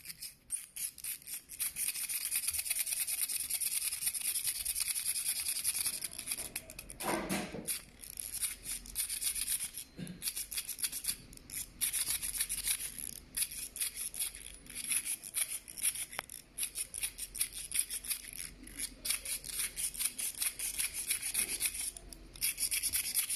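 Rubbing and scraping in quick, uneven strokes, high and hissy, pausing briefly now and then.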